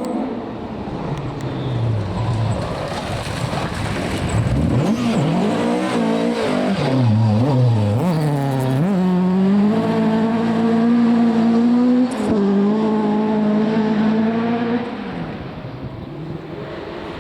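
Rally car engine at full stage pace: the revs swoop up and down several times through quick gear changes, then hold a steady high note for several seconds, broken once by a short gear-change cut, before the sound falls away as the car passes.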